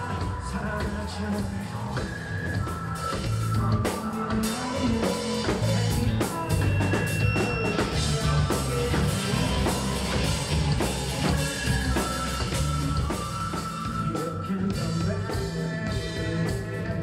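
Rock band playing, with a drum kit and a singing voice.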